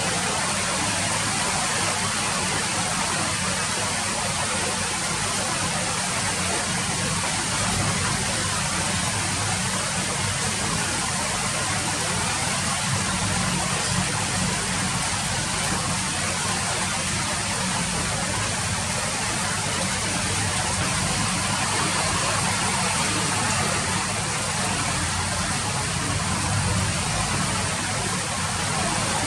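Steady rain falling, a dense, even hiss of drops with a low rumble underneath, unchanging throughout.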